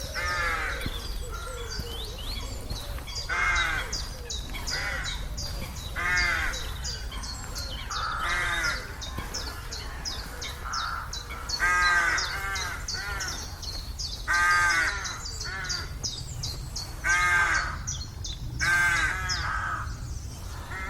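Hawaiian geese (nene) calling: about nine short, clear honks, one every couple of seconds. Under them runs a fast, steady high ticking chatter and a low rumble.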